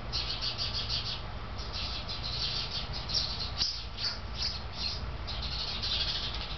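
Hummingbirds and another small bird species giving rapid, high-pitched alarm chirps in quick, unbroken runs, a racket of birds mobbing a cat over a fledgling fallen from its nest.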